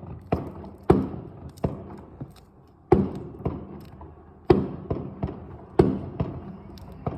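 Fireworks going off in an irregular string of sharp bangs, about ten in all, each dying away in a short echoing tail.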